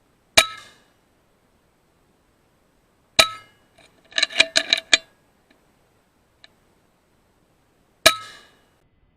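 FX Impact M3 .22 PCP air rifle shots with a metallic ring, three sharp cracks about three and five seconds apart. Between the second and third there is a quick rattle of about six smaller metallic clicks that ring the same way.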